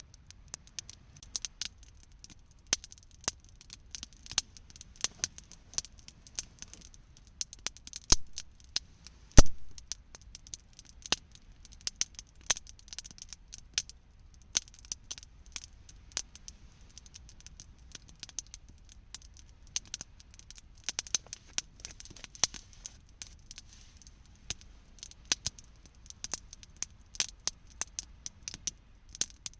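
Wood campfire crackling: irregular sharp pops and snaps, with two louder pops about eight and nine seconds in.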